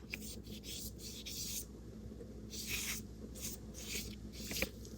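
Paintbrush loaded with acrylic paint stroking across gesso-primed paper, a soft scratchy brushing in a longer stroke early on and several shorter strokes after.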